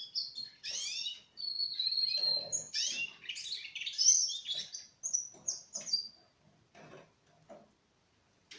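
Young Russian canary, about four months old, singing a fast run of high trills and warbles with one long whistled note; the song stops about six seconds in.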